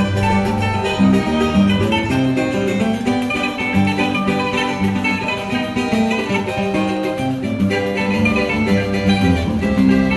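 A choro group playing an instrumental piece on plucked strings, with a guitar line of changing low notes under a higher melody.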